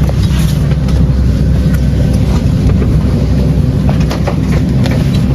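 Loud steady low engine rumble with scattered light clicks and knocks.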